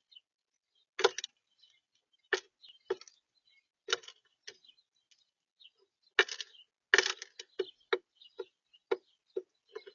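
Birds pecking at seed on a bird feeder: irregular sharp taps and knocks of beaks on the feeder, some in quick clusters, with faint high chirps between.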